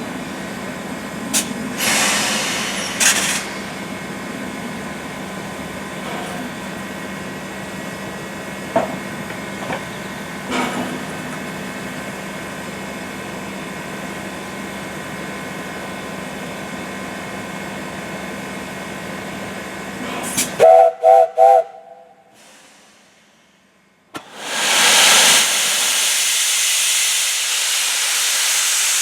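Steam locomotive 60163 Tornado standing in steam: a steady hum with brief bursts of steam hiss, then about two-thirds through three short toots of its whistle. After a short quiet gap, a loud steady rush of escaping steam hiss.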